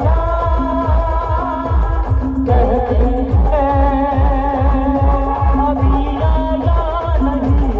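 Live band music: a heavy bass drum beat at about two to three strokes a second under a wavering, Bollywood-style melody line.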